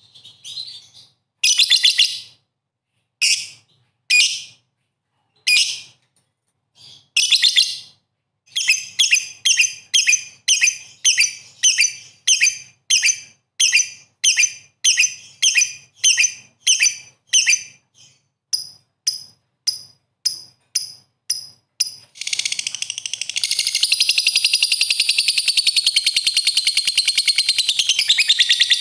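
Songbird song: short, rich, high phrases repeated about once a second, then quickening to about two a second, thinning to brief high notes, and breaking into a continuous fast chattering trill about 22 seconds in. It is a song of the kind played to provoke fighting songbirds into answering.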